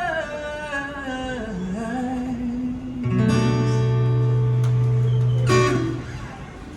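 Live busking music: a voice sings a falling line over guitar. About three seconds in, a louder held chord rings steadily, then is cut off with a sharp strum and dies away, ending the song.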